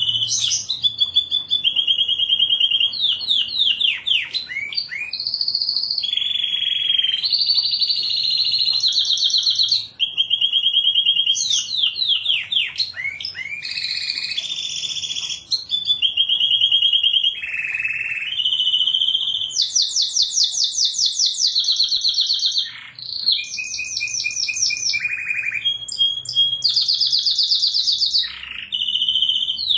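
Canary singing continuously: a chain of rapid trills, each a fast run of identical notes held for a second or two before switching to a higher or lower pitch, with quick downward-sweeping notes between some of them.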